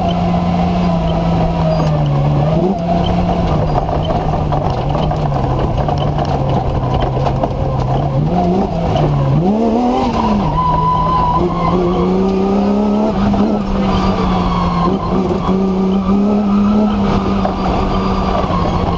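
BMW M3 engine of an off-road competition car running hard, heard from inside the cockpit. The revs hold fairly steady, dipping and climbing back briefly about three seconds in and again around nine to ten seconds in.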